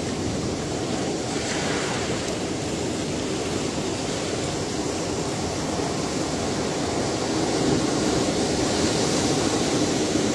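Ocean waves washing onto a shore, a steady rushing wash of surf that swells slightly louder near the end.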